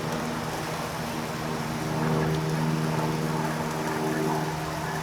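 A small motor or engine running steadily with an even, low pitched hum, a little louder from about two seconds in.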